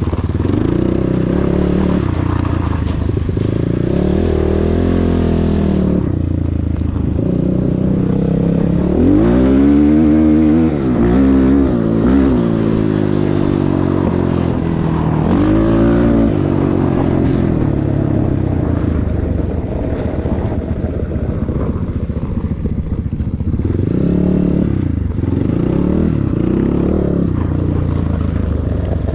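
KEWS K16 PRO enduro motorcycle engine running under way, the revs rising and falling repeatedly, with the biggest surges about ten seconds in, near the middle and again near the end.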